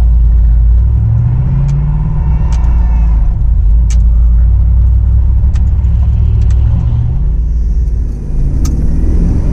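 Truck engine running with a heavy low rumble, its revs rising and falling a few times as it drives, with a few sharp clicks over it.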